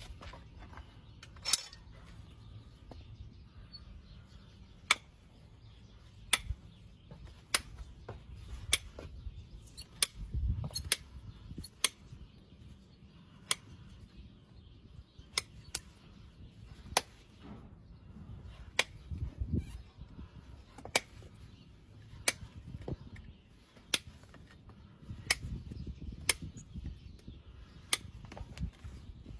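Hoof-trimming tools working on a horse's hoof: a long run of sharp snaps and clicks, irregular but roughly one a second, with a couple of low thumps between them.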